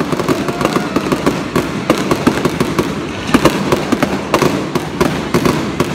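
Fireworks going off in a rapid string of cracks and bangs, several a second, loud throughout.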